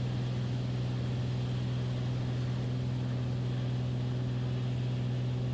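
Steady drone of a Beechcraft Bonanza's piston engine and propeller in flight, an even low hum with fainter overtones that holds unchanged throughout.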